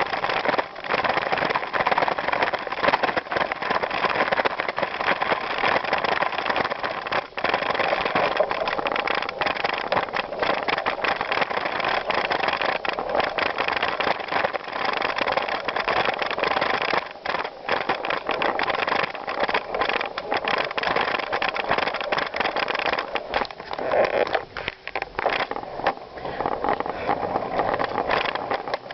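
Bicycle rolling over a gravel trail: a steady rushing and crunching of the tyres on loose stones, with a few brief dips.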